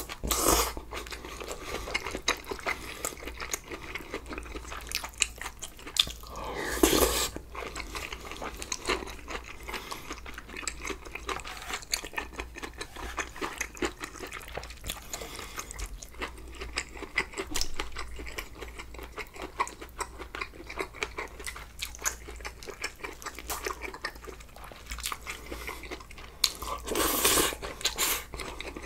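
Close-miked eating sounds of a man eating budae-jjigae stew: wet chewing and crunching with many small clicks throughout. A louder slurp of broth from a wooden spoon comes about seven seconds in, and another loud stretch near the end.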